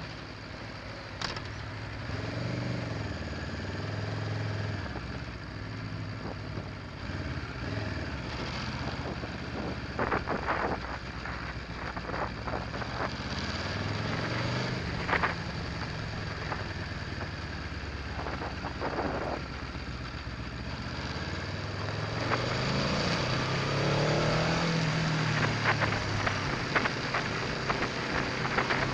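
Aprilia Tuono V4 1100 Factory motorcycle engine running at low revs, its pitch rising and falling gently several times, with scattered clicks and knocks over it.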